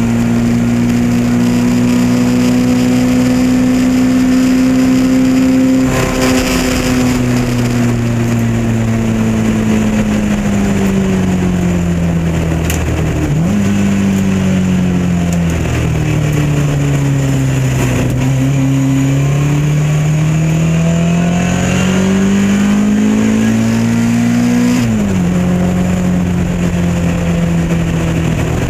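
Lotus Elan race car's engine heard onboard, holding steady revs, then easing off with the revs falling. About halfway through a sharp step up in revs marks a downshift; the revs then sink and climb steadily again before dropping abruptly at a gear change near the end, after which the engine runs at steady revs.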